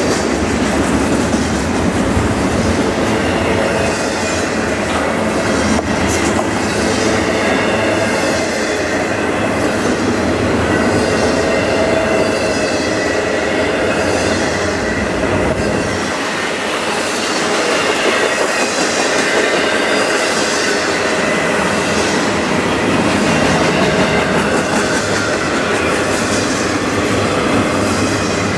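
Double-stack intermodal container well cars of a freight train rolling past: a steady rumble and rattle of steel wheels on rail, with a regular beat as the wheel sets go by and a thin high wheel squeal over the top. The low rumble eases off for a few seconds past the middle.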